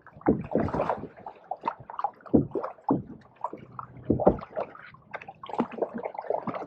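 Canoe paddles dipping and pulling through pond water, splashing and gurgling in an uneven series of strokes.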